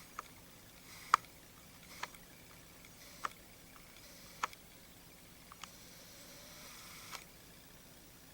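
A series of seven short, sharp clicks or taps, roughly one a second and uneven in strength; the loudest comes a little over a second in.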